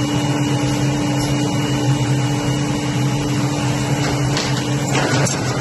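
Zahoransky Z.LION 5-axis CNC brush making machine running with a steady mechanical hum and a whine. About five seconds in the whine stops with a short rush of noise, and rapid clicking begins.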